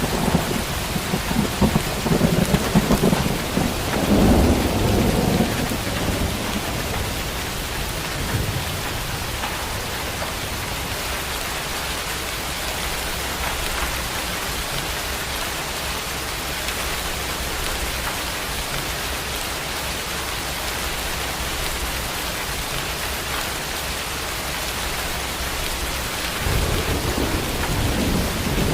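Steady rain falling, with rolls of thunder rumbling in the first few seconds and again near the end.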